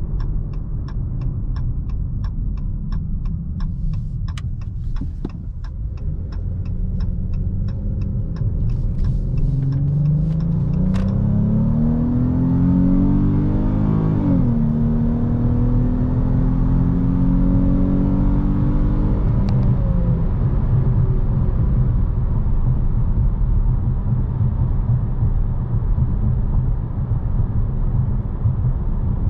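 Dodge Charger GT's 3.6-litre V6 accelerating through the gears of its 8-speed automatic. The engine pitch rises, drops at an upshift about halfway, rises again and shifts once more, then settles into a steady cruise with low road rumble. During the first third a turn signal ticks about two and a half times a second, stopping as the acceleration begins.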